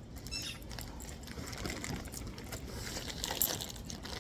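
Handling noise from assembly: light rustling and scattered clicks as parts are moved, with a short rapid rattle near the start and a sharper click about three and a half seconds in.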